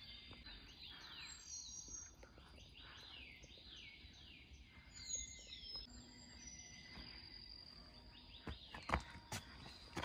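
Wild birds singing: a series of repeated downslurred whistled notes, with shorter higher whistles above them, over a steady thin high tone. A few footsteps land near the end.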